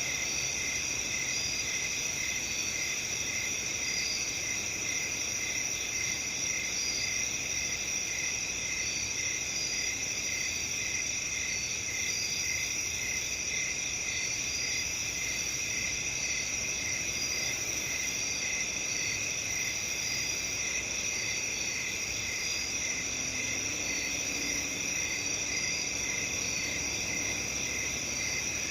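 A steady chorus of crickets chirping at several pitches at once, one of them in a regular slow pulse of chirps and others trilling continuously above it.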